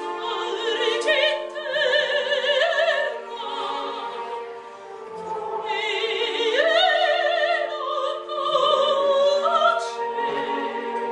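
Operatic singing: a high voice with strong vibrato sings two long phrases over sustained instrumental accompaniment.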